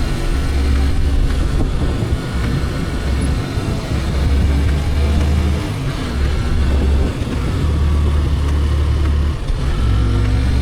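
Motorcycle running at road speed, with a heavy, uneven low rumble of wind on the microphone.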